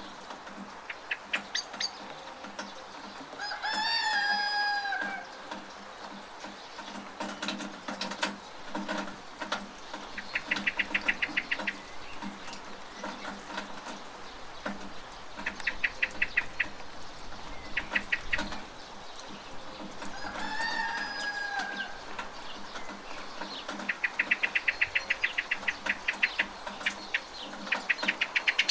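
A rooster crowing twice over the steady hiss of rain. Between the crows come several runs of rapid clicks and scattered sharp ticks.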